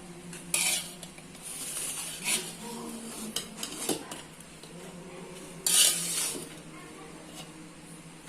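A metal spoon scraping and clinking against a cooking pot of biryani in short separate strokes, the loudest about six seconds in, over a faint steady hum.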